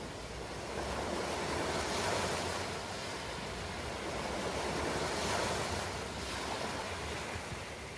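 Ocean waves washing onto a shore: a steady rush of surf that swells twice, about two seconds in and again about five seconds in, easing off in between.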